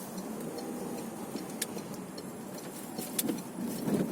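Steady low engine and road noise heard inside a moving car's cabin, with a couple of sharp clicks.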